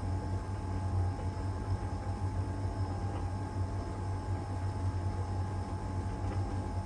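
LG heat pump tumble dryer running mid-cycle in its Iron Dry stage: a steady low hum with a constant whine above it and a wash of noise.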